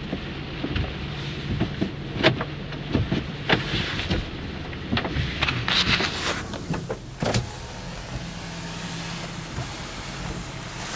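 Inside a stopped car: the engine idles with a steady low hum while a power window motor runs and there are scattered clicks and knocks of handling in the cabin. A stretch of hissing noise comes in about five seconds in.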